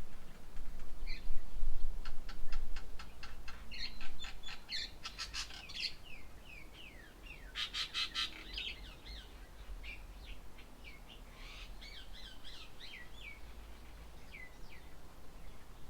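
Birds calling at a feeding table. Rapid chattering bursts come in the first half and again about eight seconds in, followed by a series of short downward-slurred whistled notes. A steady low rumble runs underneath, louder in the first few seconds.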